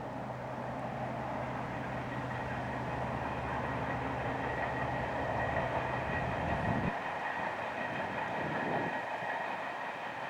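English Electric Class 37 diesel-electric locomotive's V12 engine droning as it passes with its train. About seven seconds in, the engine sound drops away suddenly, leaving the steady rolling of the coaches' wheels on the track.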